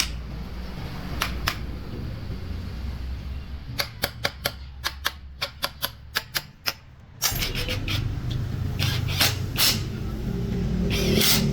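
A quick run of about a dozen sharp clicks or taps over a low steady rumble, with a few scattered clicks before and after.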